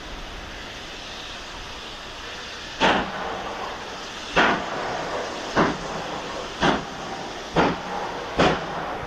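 Two-cylinder GWR Modified Hall 4-6-0 steam locomotive starting away: a steady hiss of steam, then from about three seconds in, sharp chimney exhaust beats that come quicker as the engine gathers speed.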